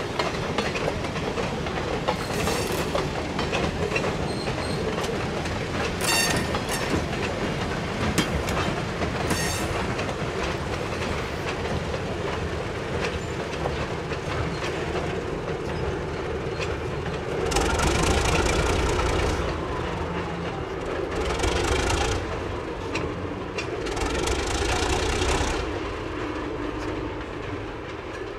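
Freight train rolling past on a shove move: a steady rumble with the clicking of wheels over rail joints, and three louder rushes of noise in the second half.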